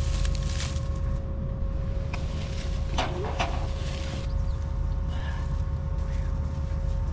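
Farm tractor engine running steadily with a steady high whine from the running machinery, and a couple of short knocks about two and three seconds in.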